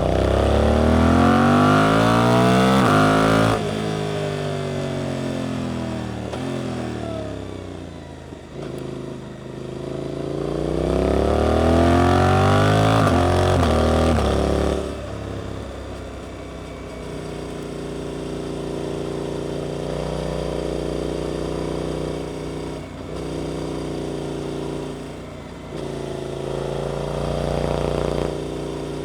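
Suzuki GSX-8S 776 cc parallel-twin with an Arrows aftermarket exhaust, accelerating hard twice with the pitch climbing steeply, easing off in between, then cut sharply and held at steady revs for the second half.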